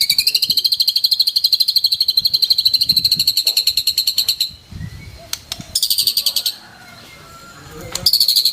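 White-rumped shama (murai batu) singing its rapid-fire 'tembakan' phrase: a very fast, high, machine-gun-like trill of repeated notes that runs for about four and a half seconds, breaks off, returns in a short burst around six seconds in, and starts again near the end.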